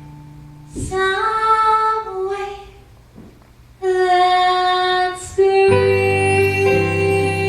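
Woman singing a slow musical-theatre ballad in long held phrases over soft accompaniment, with the band coming in fuller under a sustained note in the second half.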